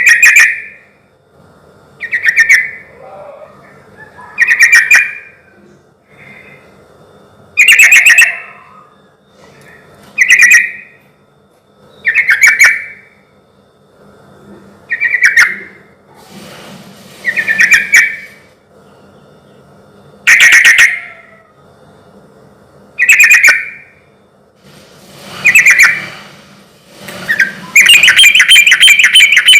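Sooty-headed bulbul (trucukan) singing: short, loud phrases repeated about every two and a half seconds, with a longer, unbroken run of song near the end.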